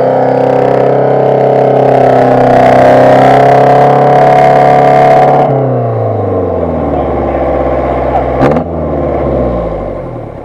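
UAZ-469 engine held at high, steady revs as the jeep ploughs through a muddy rut, its wheels spinning and throwing mud. About halfway through the revs fall away, a quick sharp blip of the throttle comes near the end, and the engine then runs lower and fades.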